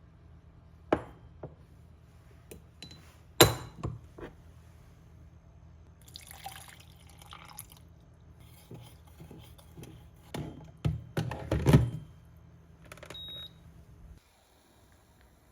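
Kitchen handling sounds: a handful of sharp knocks and clinks of glass or dishware being set down and moved, with a brief ringing clink near the end, over a low steady hum that cuts off near the end.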